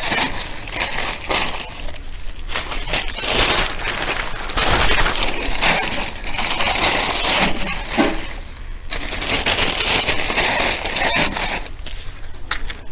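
Dry coconut-palm leaves crackling and rustling as they are handled, broken and piled up as kindling, in irregular spells with short pauses between.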